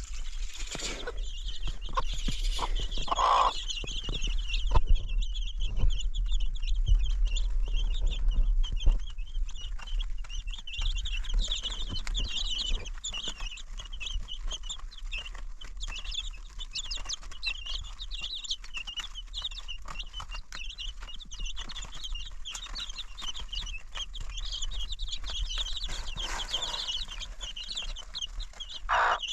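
Chickens clucking and chirping continuously, with a few short knocks in the first several seconds.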